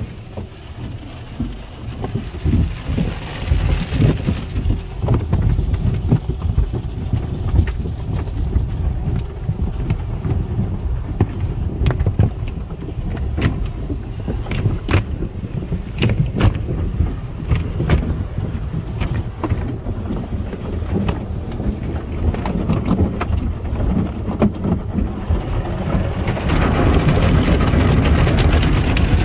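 Tunnel car wash equipment heard from inside the car: a steady low rumble with many sharp slaps and knocks as the cloth mitters and wraps work over the body. Near the end comes a louder, steady hiss of spray or blowing air.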